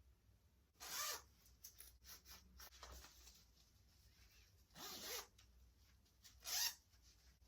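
Zipper on a tablet pouch being pulled in three short strokes, about a second in, about five seconds in and near the end, with light handling rustles between.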